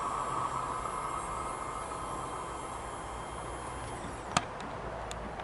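Fading rush of a departing ALN 776 diesel railcar, dying away slowly while the level-crossing barriers lift. One sharp click about four and a half seconds in.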